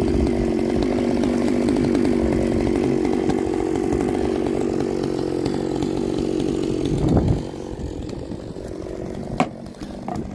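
Chainsaw running steadily under load for about seven seconds, then dropping to a lower, quieter running. A single sharp crack comes near the end.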